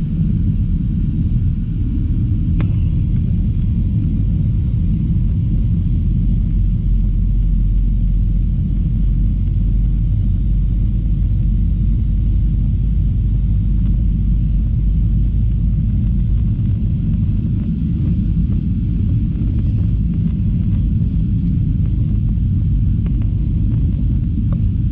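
Steady low rumble of an Airbus A321's cabin noise, from its engines and airflow.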